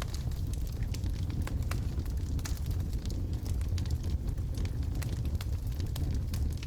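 Wood logs burning in a fireplace: a steady low rumble of the flames with irregular sharp crackles and pops, several a second.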